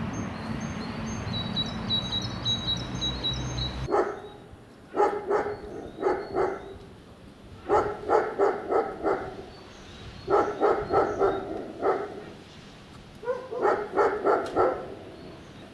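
A dog barking in repeated runs of three to five quick barks, a run every two or three seconds. Before that, about four seconds in, a low steady rumble with a small bird's repeated high chirping cuts off abruptly.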